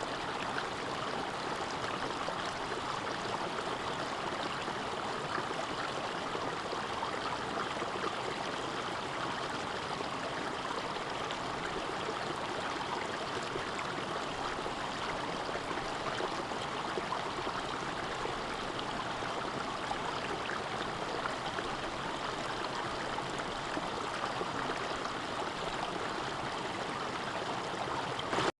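Mountain stream rushing steadily, an even, unbroken wash of flowing water.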